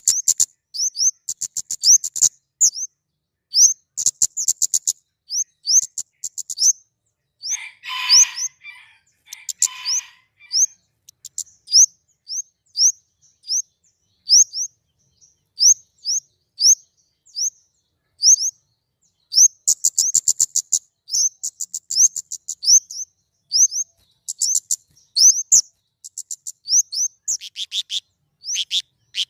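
Flowerpecker (kemade) calling: a long series of short, very high, thin notes, about one or two a second, broken by bursts of rapid ticking. About eight and ten seconds in there is a lower, harsher chatter.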